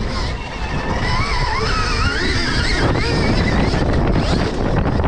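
Stark Varg electric motocross bike's motor whining, its pitch rising and falling with the throttle and strongest about a second to three seconds in, over a low rumble of wind and track noise on the microphone.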